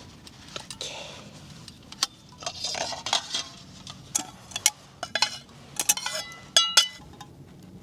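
Cooking utensils and containers being handled: a run of clatters, clicks and short rustles, with two louder ringing clinks about six and a half seconds in.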